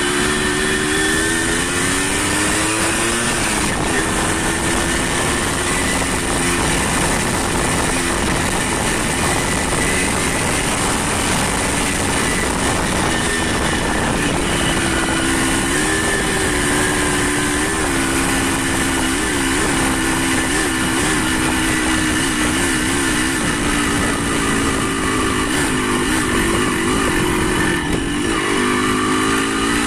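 Motorcycle engine running under way, its note rising and falling with the throttle and climbing again near the end, over a steady rushing noise of riding.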